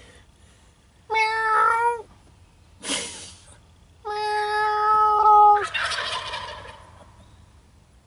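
Two drawn-out, steady-pitched imitation animal calls from the hunter, the second longer, each answered right away by a short burst of gobbling from jakes, young male wild turkeys.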